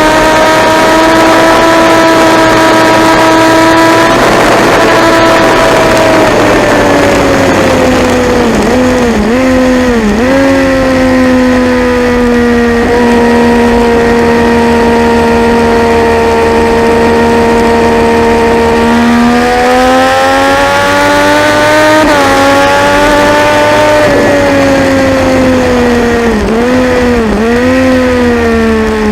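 Triumph Daytona 675's three-cylinder engine at racing revs, over a steady rush of noise. It holds high, falls with two quick blipped downshifts, runs steady for several seconds, then climbs through an upshift. Near the end it falls again with two more blipped downshifts.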